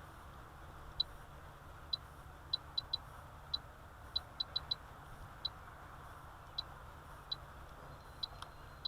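Short, high electronic beeps at irregular intervals, about sixteen in all, some in quick runs of three or four like button presses on an electronic device, over a faint steady low rumble.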